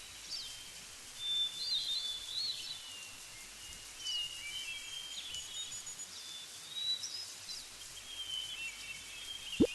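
Birds calling: high chirps and short whistles, several overlapping, throughout.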